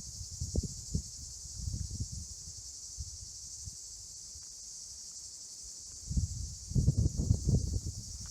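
Steady high-pitched chorus of insects chirring, with low thumps and rumbles from about six seconds in.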